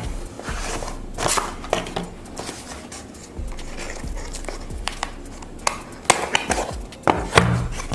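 Headphone box being opened by hand: packaging rustling and scraping, with many scattered sharp clicks and taps.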